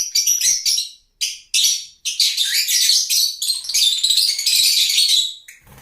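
Lovebirds chirping and chattering: rapid high-pitched chirps that break off briefly about a second and again about two seconds in, then run on as a dense stream that fades near the end.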